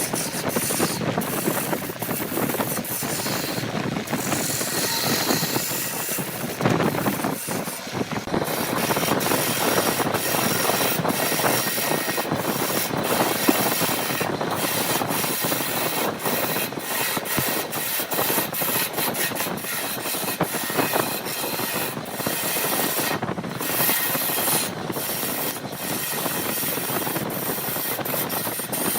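Wood being worked with tools: a continuous rasping, scraping noise broken by many brief gaps.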